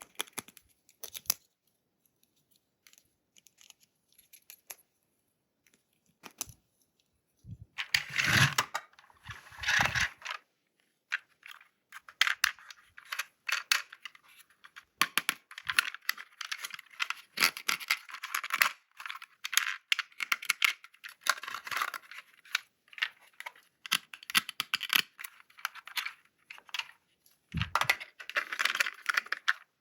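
Toy packaging and plastic toy parts being handled and unwrapped: a few small clicks at first, then from about a quarter of the way in, near-continuous scraping, rustling and tearing with small clacks.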